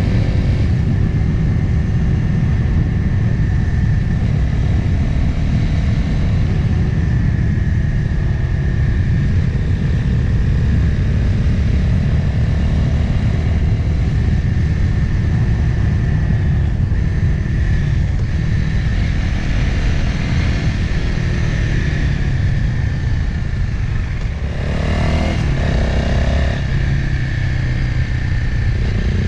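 A motorcycle riding down a mountain road, recorded from the bike itself: the engine running under a heavy, steady rush of wind and road noise. About 25 seconds in, the engine note briefly changes.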